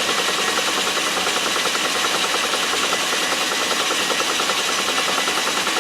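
Metal lathe running steadily, a continuous mechanical hum and hiss with a fast, even rhythmic beat.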